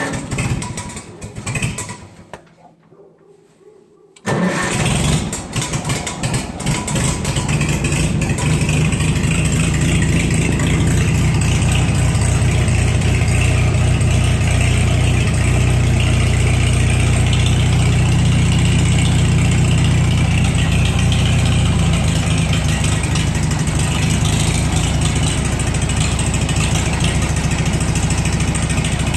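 Farmall H tractor's four-cylinder engine making a cold start at 25°F after sitting four months without a block heater: a few seconds of cranking, then it catches about four seconds in and settles into a steady run.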